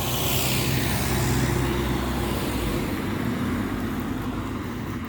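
A road vehicle driving past close by: engine and tyre noise builds to its loudest about a second in, then slowly fades.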